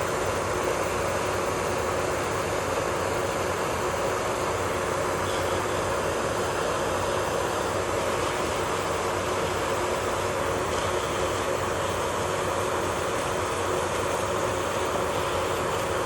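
A small electric motor whirring steadily, with a constant hum and no change in speed.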